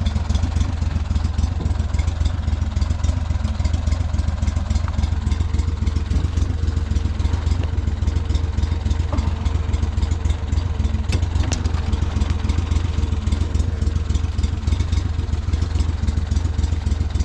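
Small boat motor running steadily with an even, rapid firing beat.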